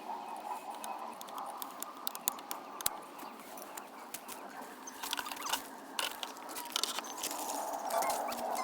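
Scattered light clicks, taps and scrapes of shredder parts being handled and fitted together during assembly, busier in the second half, over a steady outdoor background.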